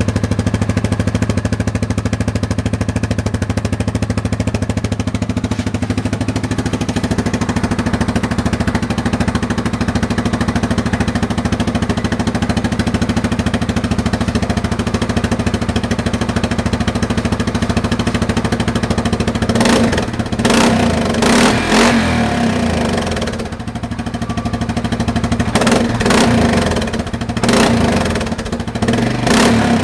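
Yamaha Grizzly 700 ATV's single-cylinder four-stroke engine idling steadily through an aftermarket slip-on exhaust tip, then blipped in a string of short revs over the last ten seconds or so.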